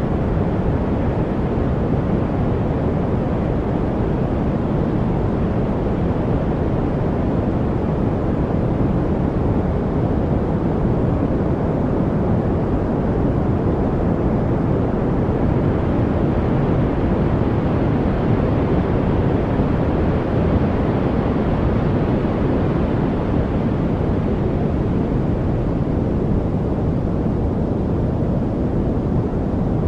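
Steady white-noise-style study track: an even, unbroken rush weighted toward the low end, a deep hiss-like rumble with no birds, water trickles or other distinct events.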